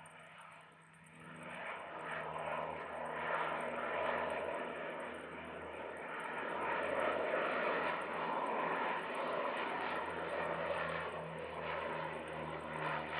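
Canadair CL-415 water bomber's two Pratt & Whitney PW123AF turboprops flying past, a steady low engine drone under a broad propeller rush. It grows louder over the first few seconds and stays loud.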